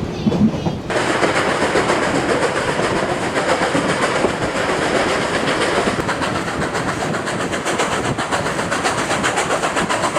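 Durango & Silverton narrow-gauge steam train running, a loud steady rush of noise that comes up about a second in, with a fast rhythmic clatter through it.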